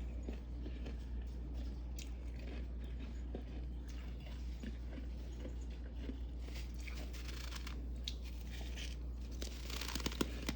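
Crisp crunching and crackling of freezer frost, many small cracks throughout that grow denser and louder near the end, over a steady low hum.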